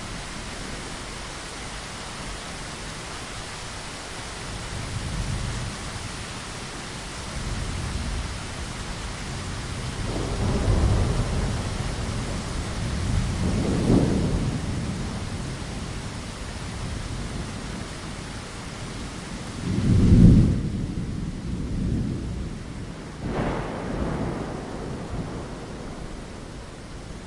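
Steady rain pattering against a window, with several low rolls of thunder swelling and fading. The loudest thunder rumble comes about two-thirds of the way in, and the rain's hiss thins a little after it.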